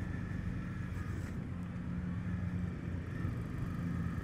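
Honda CB300F's single-cylinder engine running at steady revs, an even low drone.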